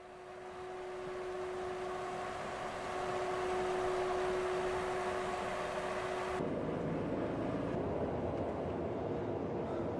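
Vehicle driving, with steady engine and road noise and a steady hum. The sound changes abruptly about six seconds in to a rougher, noisier running sound.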